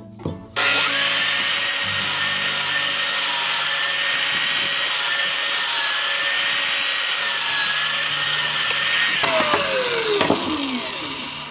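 Electric power tool switched on, its motor spinning up to speed and running steadily with a loud hiss for about eight seconds, then switched off and winding down with a falling whine.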